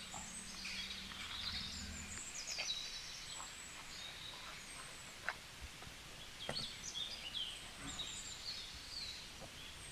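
Birds chirping faintly, with a few sharp clicks near the middle and a low steady hum that stops about two seconds in.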